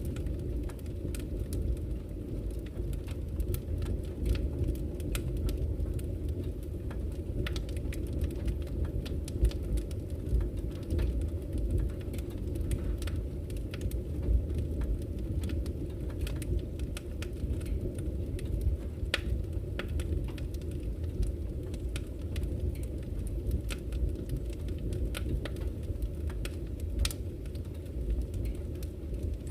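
Wood campfire crackling, with frequent irregular sharp pops and snaps, over a steady low rush of flowing river water.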